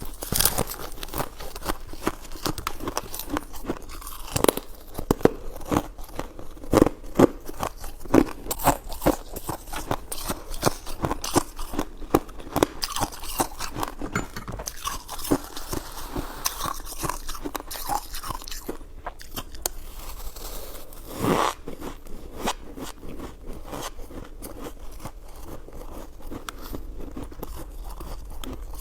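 Close-up eating sounds: bites and chewing with crisp, crunchy clicks in quick succession, the loudest bites coming between about four and twelve seconds in.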